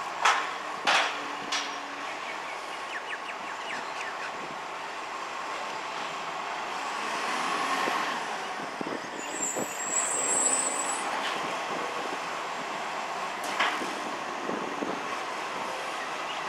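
MacDonald Johnston Gen V side-loader garbage truck on an Iveco Acco chassis running, with sharp knocks in the first two seconds and another about thirteen seconds in. The sound swells around the middle, where a brief high-pitched sound is heard.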